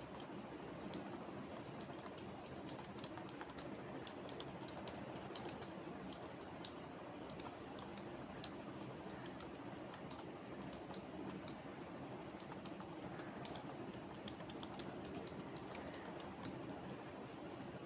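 Computer keyboard typing: irregular runs of keystrokes over a steady background noise.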